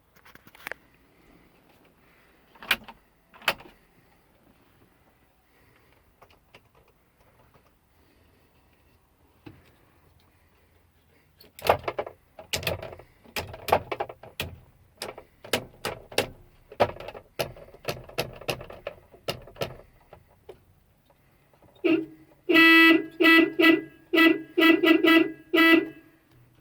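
Ford Cargo truck's horn sounding in a series of short honks near the end, after a run of clicks and knocks from the cab controls being tried.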